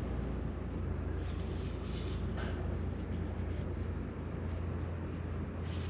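Train running: a steady low rumble with a rushing noise over it, swelling briefly a couple of times.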